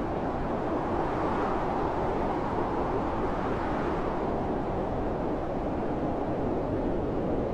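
Blizzard wind blowing in a steady deep rush, swelling in a gust a second or so in before settling back.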